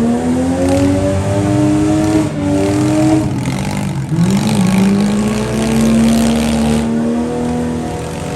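Demolition derby vans, trucks and SUVs running under hard throttle. Several engines are heard at once, their pitch repeatedly climbing and dropping as they rev, with a sharp rise about four seconds in.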